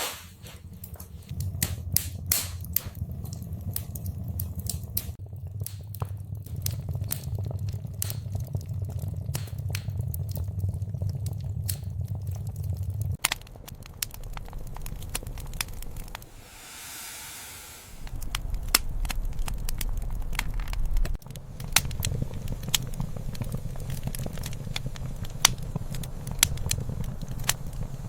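Wood fire crackling, with irregular sharp pops and snaps over a low steady rumble of the flames. About halfway through, the rumble drops away for a couple of seconds and a brief soft hiss comes up.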